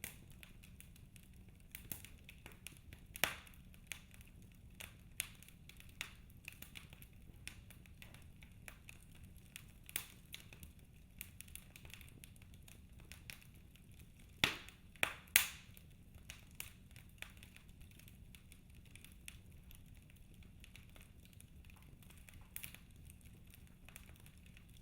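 Wood fire in a fireplace crackling, with irregular sharp pops over a low steady rumble. There is a louder pop about three seconds in and a cluster of three loud pops a little past the middle.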